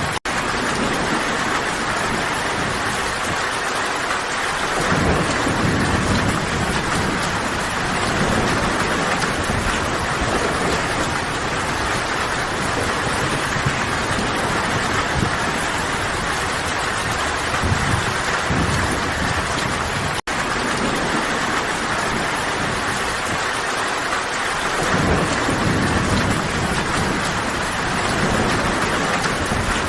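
Steady rain, a dense even hiss, with low rumbling swells about five seconds in and again near the end. The sound cuts out for an instant twice, near the start and about twenty seconds in.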